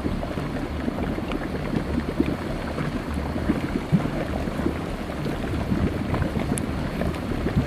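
Volcanic mud eruption: thick mud bubbling and gurgling continuously, with many small plops.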